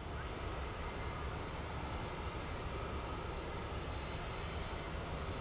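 Airliner engines running steadily: an even rumbling noise with a thin, steady high whine.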